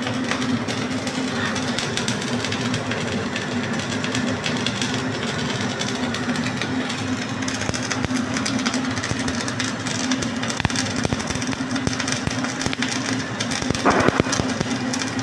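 Flux-core wire-feed welding arc crackling steadily with many small pops, over a steady low hum, with a brief louder burst near the end.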